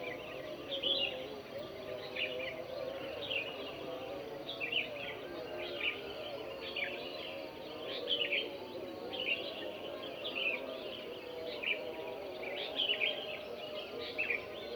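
Birds chirping in the early-morning chorus: many short, sharp calls, about one or two a second, over a steady lower hum.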